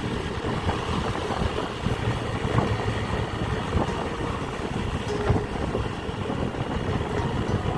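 Small motorcycle running steadily while being ridden, its engine rumble mixed with a steady rush of wind and road noise.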